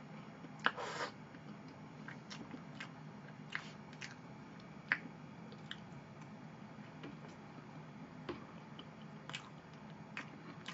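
Close-miked eating of chocolate cake with a metal fork: soft chewing, with scattered short, light clicks.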